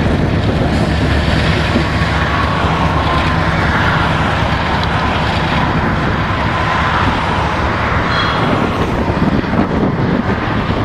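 Freight train of BNSF covered hopper cars rolling past, a steady rumble of steel wheels on rail.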